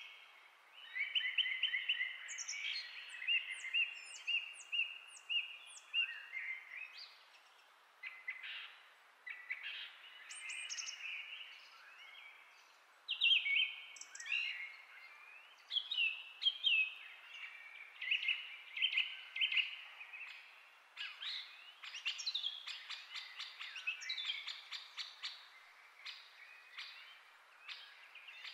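Songbirds chirping and singing: repeated short chirps and quick trills in phrases with brief pauses between them.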